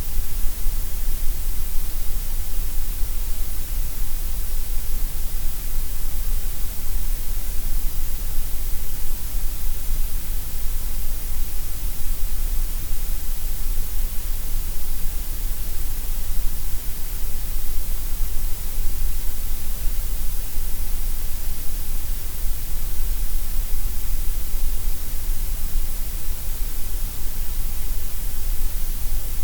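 Steady synthetic gray noise: an even, unbroken hiss, fuller in the deep bass and the high treble and thinner in the middle.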